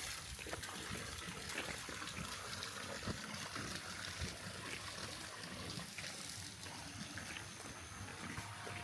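Water running and trickling steadily, with small splashy ticks throughout.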